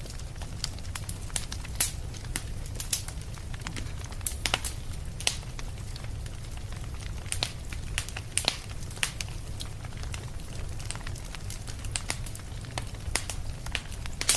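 Fireplace fire crackling, with sharp pops at irregular intervals over a steady low rumble.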